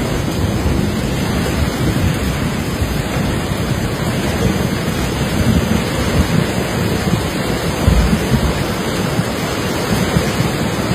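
Loud, steady rush of a fast-flowing, flood-swollen river, an even wash of water noise with a low rumble underneath.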